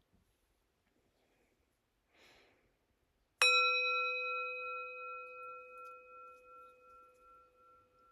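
A singing bowl struck once, ringing with several clear tones that fade slowly, the upper one wavering as it dies away. It signals the end of the silent meditation period. A faint rustle comes a second or so before the strike.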